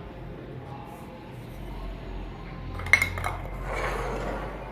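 Kitchen utensils clinking against a dish while ingredients are mixed, with one sharp clink about three seconds in and some scraping and rustling after it.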